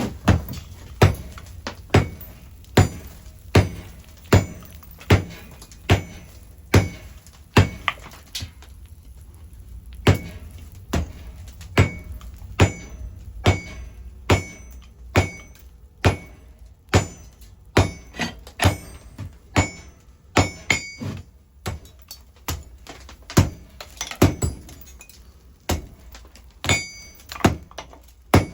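Hammer blows on metal at an anvil, a steady forging rhythm of a little over one blow a second with a brief metallic ring after each, pausing once about eight seconds in.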